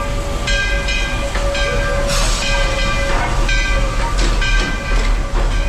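Walt Disney World Railroad steam train running, with a steady low rumble and a ringing tone that repeats about once a second. A short hiss comes about two seconds in.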